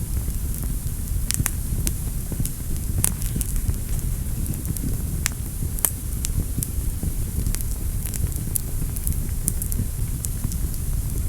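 Fire burning in a fireplace: a steady low rumble of flames with frequent irregular sharp crackles and pops, the loudest pops about three and six seconds in.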